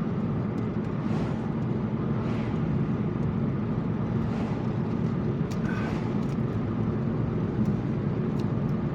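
Steady road and engine rumble of a car being driven, heard from inside the cabin, with a few faint ticks over it.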